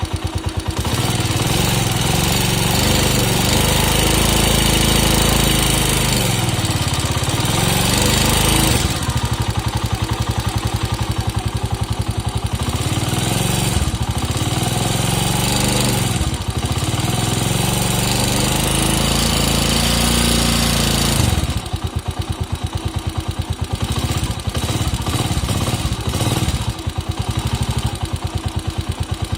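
Chinese motorcycle engine idling with a rapid, even knock, revved up and down several times for about twenty seconds, then dropping back to idle where the knock is clear again. The knock comes from inside the engine, and the owner is sure it is not the valves.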